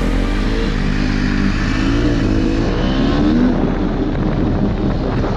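Dirt bike engine running, its pitch rising and falling several times as the throttle is worked.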